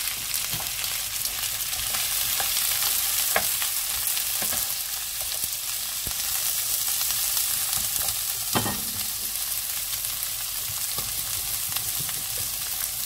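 Diced zucchini and garlic sizzling in olive oil in a frying pan, with a steady hiss. A wooden spatula stirs them and knocks against the pan a few times, the loudest knock about eight and a half seconds in.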